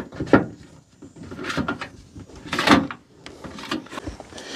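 Copper sheet flashing being bent back by hand, the thin metal flexing and rattling in a few irregular bursts, the loudest about a third of a second in and another just past the middle.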